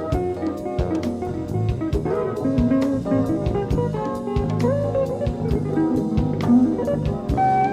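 Jazz band playing a quiet tune live, recorded on cassette: guitar lines over bass and a drum kit with frequent light cymbal and drum strokes.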